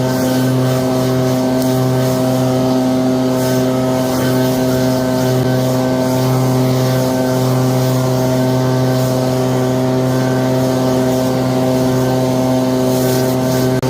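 Leaf blower motor running steadily at one constant speed, a loud, unchanging drone.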